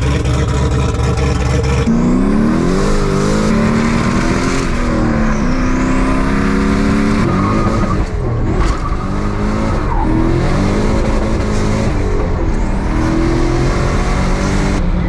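Turbocharged Chevrolet Camaro engine, first running steadily, then revving and accelerating hard: its pitch climbs and falls again several times as it pulls through the gears, with a faint rising turbo whistle above the engine note. The sound changes abruptly at several points.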